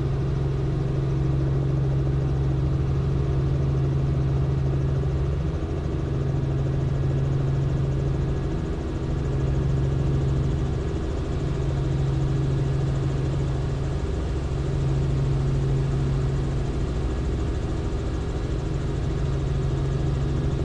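Robinson R44 helicopter running at climb power just after lifting off from a touch-and-go: a steady engine and rotor drone with a strong low hum that eases slightly every few seconds.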